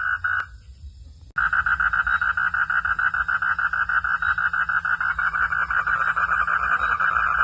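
Night frog calls, a rhythmic pulsed chorus. The calling stops about half a second in and starts again abruptly just over a second in, now faster, at about eight pulses a second, over a low steady hum.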